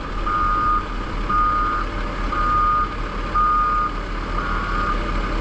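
Gravel truck's reversing alarm beeping steadily, about one half-second beep a second, as the truck backs up. The engine runs underneath.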